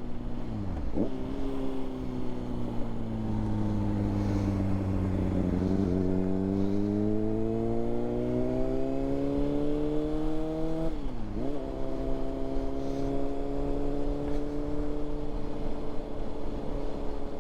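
Honda CBR600RR's inline-four engine through a Yoshimura exhaust, ridden on the road: a gear change about a second in, the engine note sinking slowly and then climbing steadily for several seconds, a sharp upshift drop about two-thirds of the way through, then a steady cruise. Wind rush on the microphone runs underneath.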